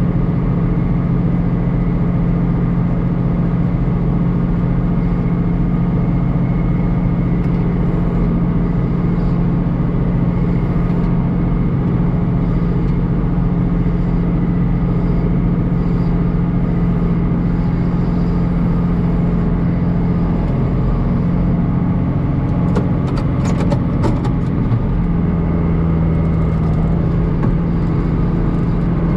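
John Deere tractor's diesel engine running steadily at working speed. A short clatter of rattles comes near the end, and the engine note shifts slightly just after.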